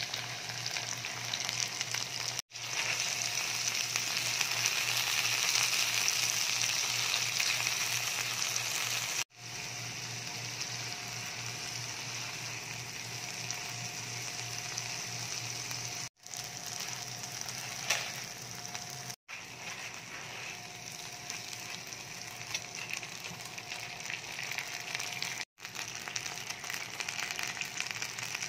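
Chopped tomatoes, onion and garlic sizzling in hot oil in a nonstick frying pan. It is a steady frying hiss, loudest for the first several seconds after the tomatoes go in and then settling lower, and it is cut off briefly several times.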